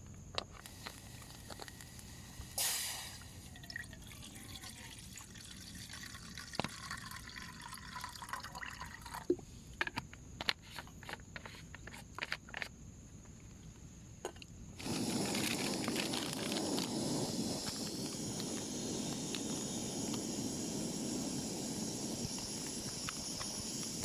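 Rain on a camping tarp: scattered single drops drip and tap at first, then about two-thirds of the way through a steady, heavier rain sets in abruptly and keeps on.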